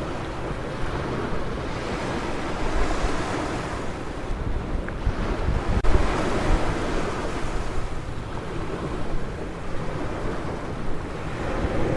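Ocean surf washing onto a beach in rolling swells, with wind buffeting the microphone.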